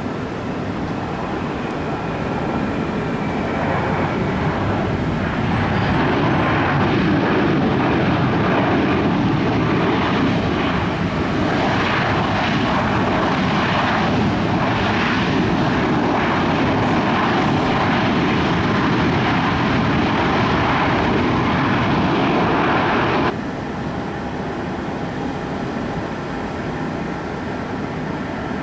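Jet airliner engines passing close by: a broad roar that builds over the first several seconds and stays loud, then drops abruptly about three-quarters of the way through to a lower, steady rumble.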